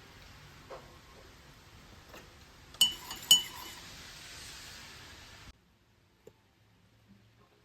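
Two sharp, ringing clinks of tableware about half a second apart, over a steady hiss that cuts off suddenly a couple of seconds later.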